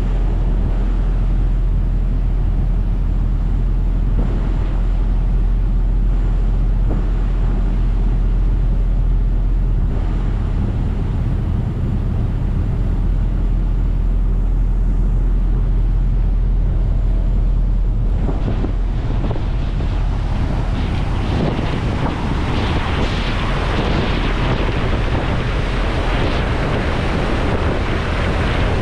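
Ferry's engine droning steadily, with wind buffeting the microphone and water rushing along the hull; the wind and water noise grows louder about two-thirds of the way through.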